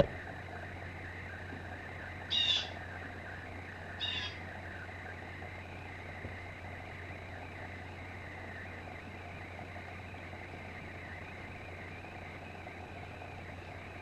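Blue jay giving two short calls about a second and a half apart, over a steady low hum.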